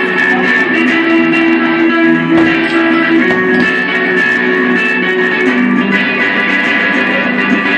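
Live guitar music: a guitar jam with held notes ringing over one another at a steady loudness.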